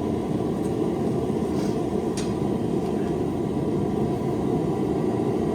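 Knife-forging forge running with a steady roar. A couple of faint clicks sound about a second and a half and two seconds in.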